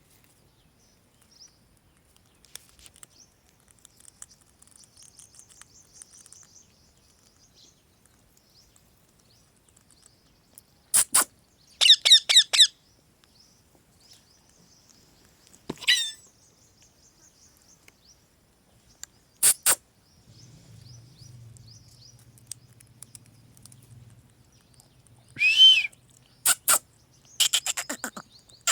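Pet parrot calling: a few loud, sharp screeching calls spread out with pauses between them, one a quick run of notes, with faint high chirping in between.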